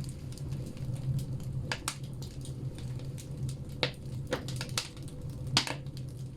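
Firewood burning in a bathhouse stove, crackling with irregular sharp pops, the loudest about five and a half seconds in, over a steady low hum.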